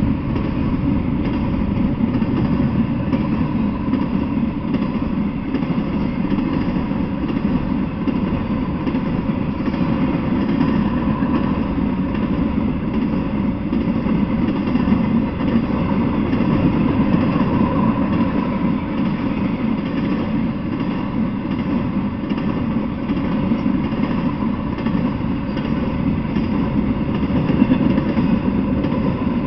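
Intermodal freight train cars rolling steadily past, the wheels on the rails making a continuous low rumble.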